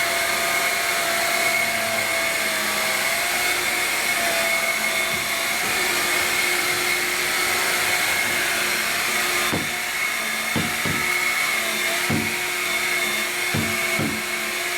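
Hoover Linx cordless stick vacuum running steadily along a baseboard edge, a motor hiss with a high whine, then a few short knocks over the last few seconds.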